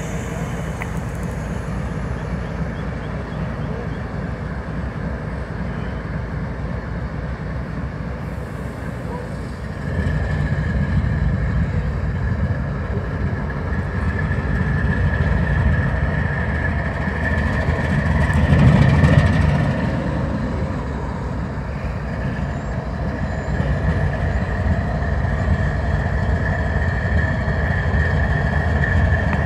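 Diesel train running by: a steady low rumble that steps up in loudness about ten seconds in and swells to its loudest about two-thirds of the way through, with a thin steady whine above it from ten seconds on.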